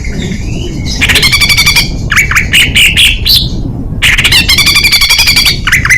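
Songbird singing a dense 'tembakan' burst: two fast rattling trills, the second about three seconds after the first, with sharp falling chirps between them and again near the end, over a steady low background rumble.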